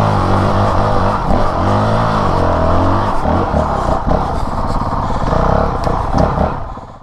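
Dirt bike engine climbing a trail hill, the revs rising and falling over and over as the throttle is worked. The engine sound cuts off suddenly at the end.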